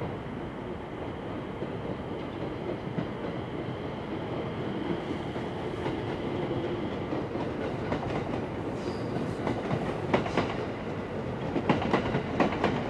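A passing train: a steady rumble, with wheel clatter on the rail joints coming in sharp clicks over the last few seconds.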